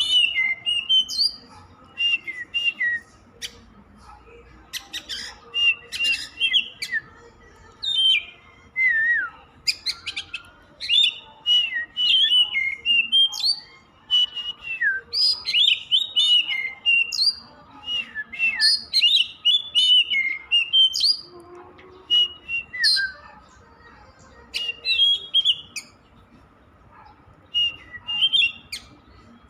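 Oriental magpie-robin (kacer) singing a varied song of quick whistled and chirping notes. It comes in bursts separated by short pauses.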